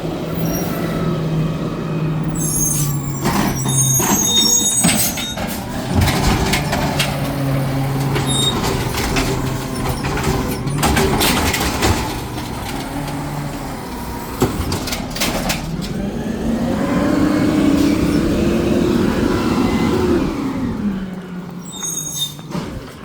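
Garbage truck at work on a trash pickup: its engine runs with a steady hum while metal clanks and knocks sound again and again through the middle. Near the end the engine revs up and drops back.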